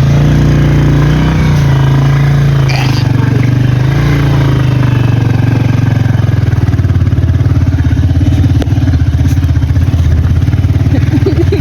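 Motorcycle engine running loud and steady. Its pitch drops about a second and a half in, then holds even.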